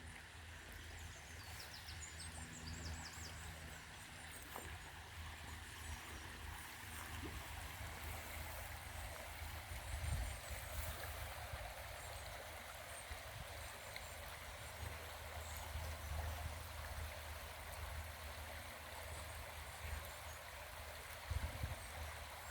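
Steady outdoor rushing like a stream of running water, with a low rumble that swells briefly about halfway through and again near the end. Faint, rapid high chirps sound about a second in.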